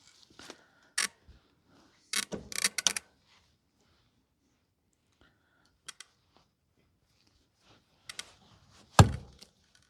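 Irregular metallic clicks and knocks from a hand-cranked fence wire tightener being worked on barbed wire, with a cluster of clanks a couple of seconds in and a louder thunk near the end.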